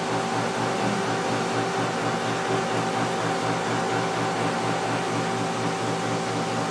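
Mitsubishi GE20A CNC gear hobbing machine running steadily while cutting a gear, a constant hum with several held tones.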